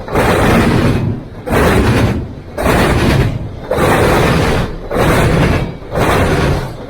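Freight train rolling past close by: a loud rumble of wheels on rail that pulses about once a second as each car goes by.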